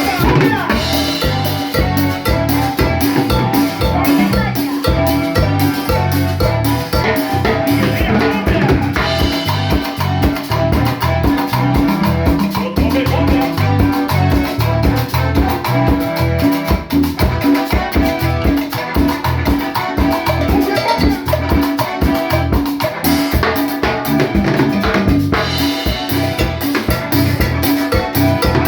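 Instrumental cumbia lagunera: a band playing a steady, even beat on drums and percussion, with keyboard melody lines over it.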